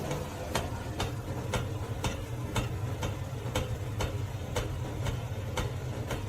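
Steady ticking, about two sharp clicks a second, over a low steady hum.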